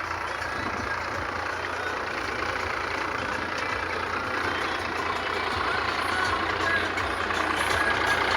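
Sonalika tractor's diesel engine running steadily, growing gradually louder.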